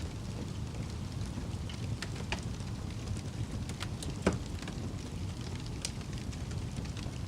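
Fire crackling: scattered pops and snaps over a steady low rumble, with one louder pop about four seconds in.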